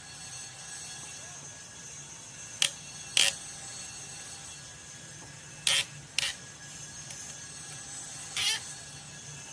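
Five short, sharp knocks at uneven intervals over a steady low hum with faint high steady tones.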